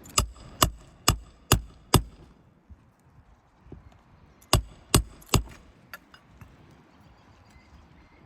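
Hammer blows driving roofing nails into a replacement asphalt shingle: five sharp ringing strikes about half a second apart, then after a pause three more.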